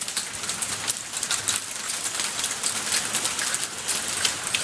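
Rain and hail pelting down steadily: a dense patter of many small hits.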